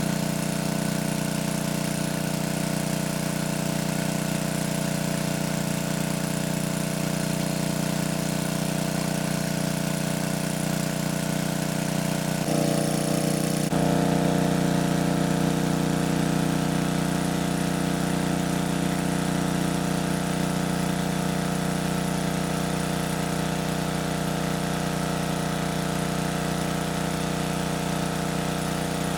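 A small engine running steadily at a constant speed, its sound changing abruptly about 13 seconds in.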